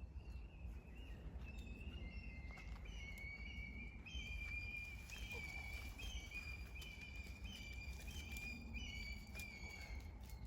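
Campfire burning with scattered small crackles, over a steady high whistle that shifts up and down in pitch every second or so, the sound of steam escaping from burning wood.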